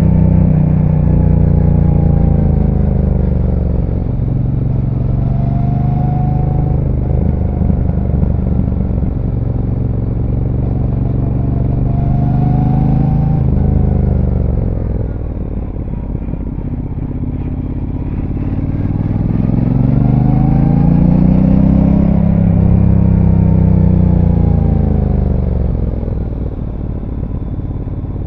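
Brixton Cromwell 1200's parallel-twin engine on its stock exhaust, heard from on board while riding. Engine speed swells and drops several times as the bike slows for bends and pulls out of them: it dies away about four seconds in and again a little before halfway, then climbs and falls off again in the second half.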